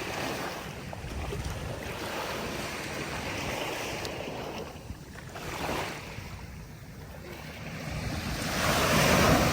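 Sea waves washing onto the shore, swelling to a louder break near the end, with wind buffeting the microphone.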